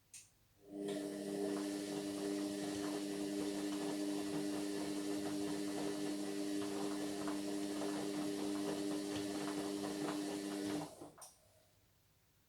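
Indesit MyTime washing machine running during a Whites 40 wash: a click, then a steady motor hum with a hiss over it for about ten seconds, stopping abruptly with a couple of clicks near the end.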